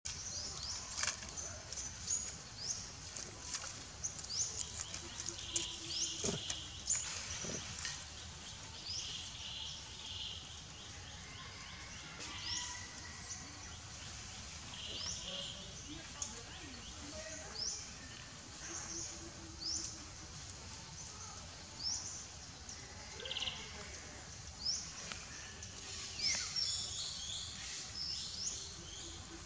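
Birds chirping: many short, high chirps repeating all through, with a few lower whistled notes, over a steady background hiss.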